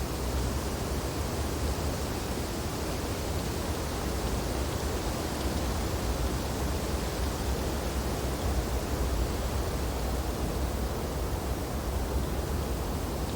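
Steady wind blowing through tree branches in a snowstorm, an even rushing noise that swells and eases only slightly.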